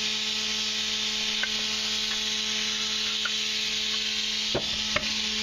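Steady hiss of machinery running, with a constant low hum under it and a couple of short knocks near the end.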